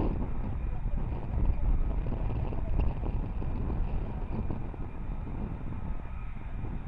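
Low, steady rumble of a distant jet engine, mixed with wind buffeting the microphone.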